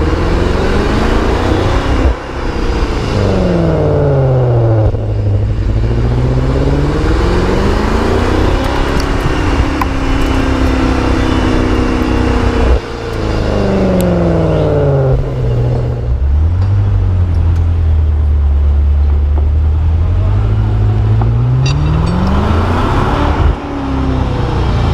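BMW M6 with an Innotech Performance (IPE) aftermarket exhaust, driven hard: the engine note climbs under acceleration, breaks off sharply as the throttle is lifted, then falls away. This happens three times, once near the start, once about halfway through and once near the end, with a loud low drone in between.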